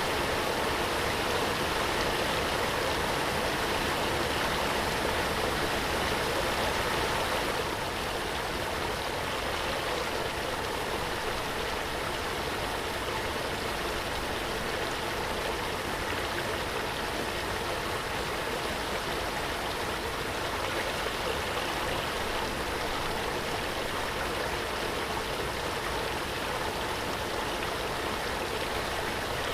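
Waterfall: a steady rush of falling water, dropping slightly in level about seven and a half seconds in.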